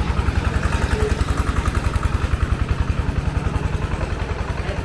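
Motorbike engine running at low revs, a steady, even low chugging pulse.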